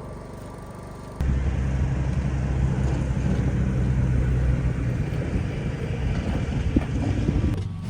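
Pickup truck running, a steady low engine rumble that comes in abruptly about a second in.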